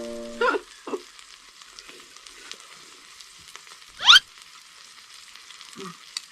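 Pork belly sizzling steadily on a hot cast-iron cauldron lid, a continuous frying hiss. About four seconds in comes a brief, loud rising squeak.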